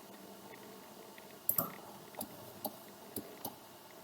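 A few faint, scattered clicks of a computer mouse and keyboard, starting about a second and a half in, about six in all.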